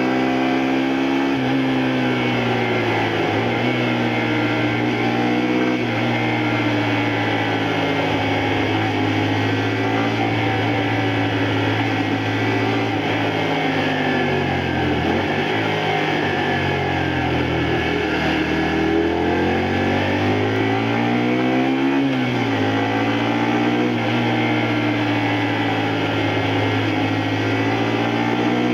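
A 2002 Honda Varadero 125's small V-twin engine pulling the bike along on the road. The engine note holds steady, sinks lower for a few seconds about halfway through as the bike slows, then climbs again and settles, over a steady rush of noise.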